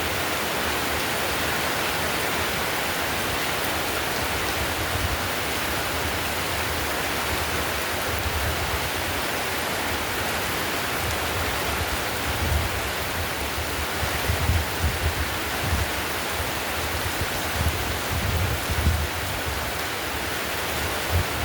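Heavy rain falling steadily on a tiled roof, an even hiss of drops. Irregular low thumps come through in the second half.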